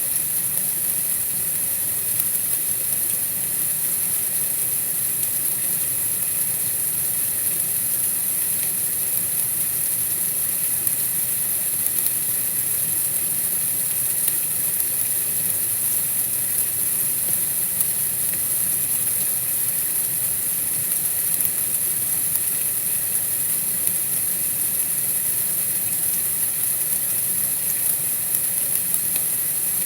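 Steady white-noise hiss, brightest in the highest pitches, unchanging, with no separate sounds.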